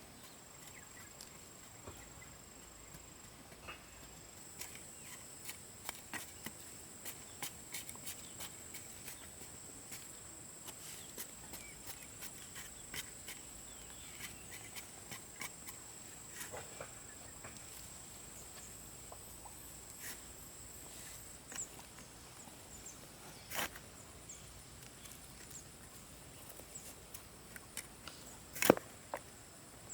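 Steady high-pitched insect drone, with scattered light clicks and taps and a sharp knock near the end.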